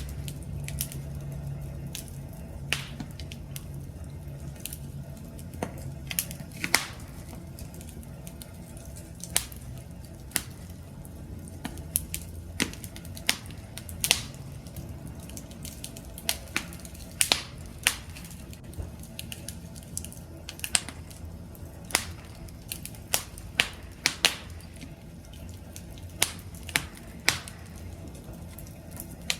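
Campfire crackling: burning wood giving irregular sharp pops and snaps, a few each second, over a steady low rumble.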